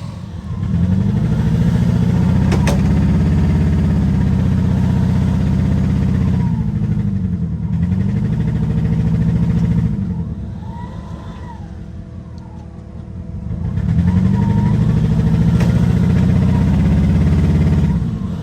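A vehicle engine revved hard and held at high revs in three long pulls, dropping back toward idle between them, as it strains to get a vehicle moving through a soft, boggy yard.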